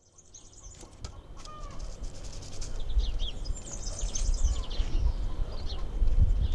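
Birds chirping and calling in quick short notes over a low rumble with occasional thumps. The sound fades in from silence over the first two seconds.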